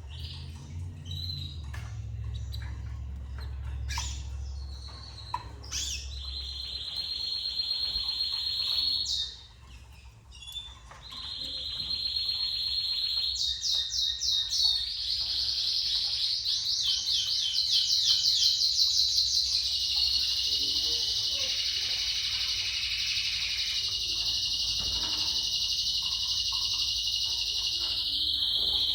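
Domestic canary singing long, rapid trills that run on for many seconds. The song breaks off briefly near the middle, passes through a stretch of faster rolling notes, then settles into a steady high trill. A low hum sits underneath during the first few seconds.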